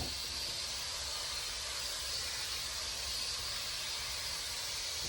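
Steady hiss of a water spray rinsing a car windshield, flushing glass-cleaner residue off the glass.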